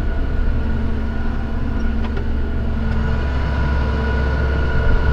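Tractor engine running steadily: a constant low drone with a steady higher whine over it.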